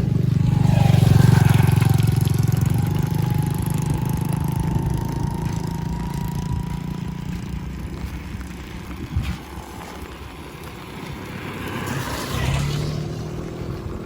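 A motor vehicle drives past close by, loudest about a second in and fading over the next several seconds. A second vehicle passes near the end, its engine note rising slightly.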